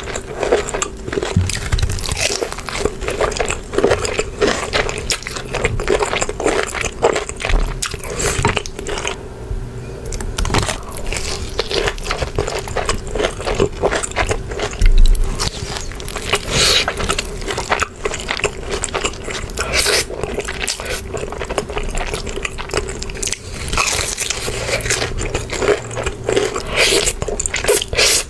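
Close-miked eating: crunchy bites and wet chewing of fried chicken and noodles, with irregular crackles and mouth sounds and a faint steady hum underneath.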